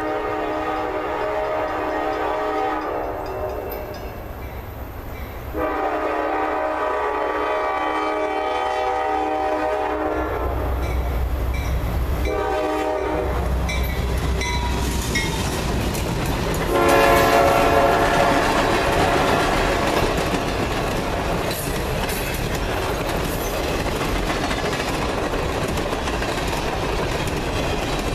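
Norfolk Southern GE diesel locomotive blowing its horn in a long, long, short, long pattern, the grade-crossing signal, as it approaches and draws alongside with its engine rumbling deep. After the last long blast, the steady rolling clatter of the loaded trash-container cars' wheels passing close by takes over.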